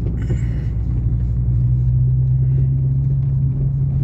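Engine of a 2003 Mercedes running steadily as the car drives, heard from inside the cabin as a low, even drone that grows a little stronger about a second in. Its exhaust has an unusual note, which the owner takes for damage to the exhaust.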